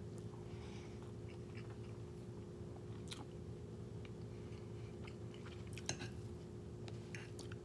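A person chewing a mouthful of soft rice and egg, with a few light clicks of a metal fork against a ceramic bowl, over a steady low hum.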